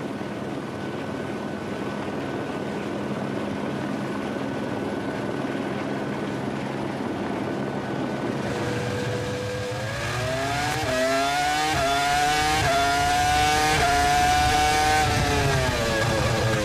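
Formula One V10 engine accelerating: a steady rush of noise, then from about eight seconds in a high engine note climbs in steps through several quick upshifts before falling away near the end.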